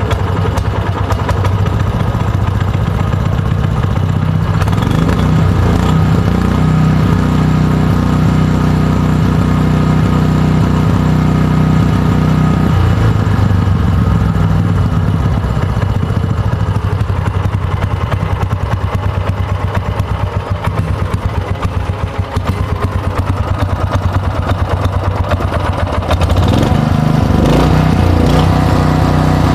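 Robin EY35B single-cylinder four-stroke gasoline engine running steadily, its speed rising and settling about five seconds in and again near the end.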